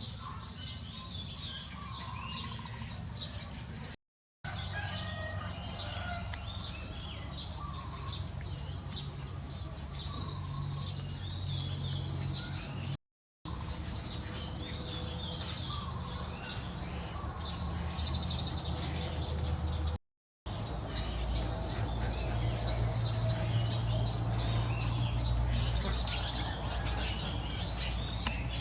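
Many high, rapid chirps from baby birds, nearly continuous, with a few lower calls mixed in. The sound drops out briefly three times.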